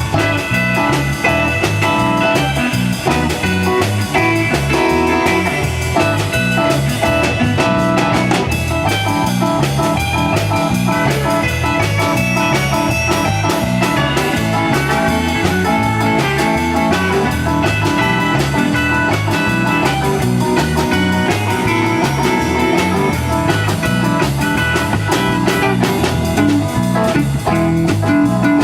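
A small band playing blues rock, with electric guitar over bass and drum kit at a steady beat.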